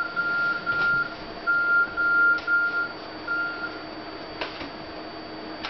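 A run of about seven short electronic beeps at one steady pitch, irregularly spaced, over a faint steady hum, followed by a single click about four and a half seconds in.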